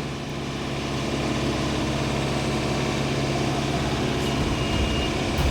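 An engine running steadily, with a heavier low rumble building from about four seconds in.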